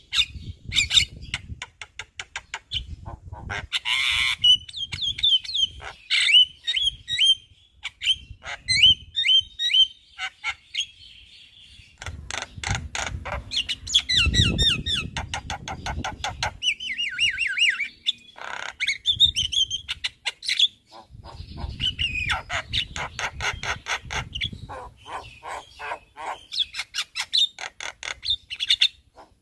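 A Javan myna singing vigorously: a long, varied run of chattering, rapid clicking, short whistled notes and harsh squawks, packed with learned and mimicked phrases.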